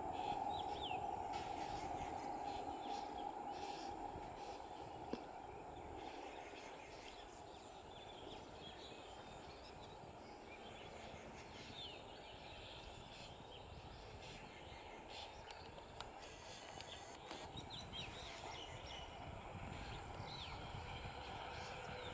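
Faint low rumble of an approaching electric multiple unit (EMU) local train, with birds chirping. A steady hum at the start fades over the first few seconds, and the level rises a little near the end as the train draws closer.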